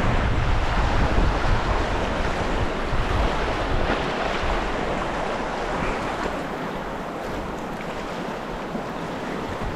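Rushing river water, with wind buffeting the microphone that eases after about six seconds.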